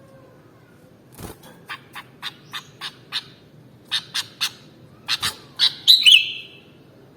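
Sooty-headed bulbul calling: a run of short, sharp chirps starting about a second in, in uneven clusters, ending in a louder warbled phrase near the end.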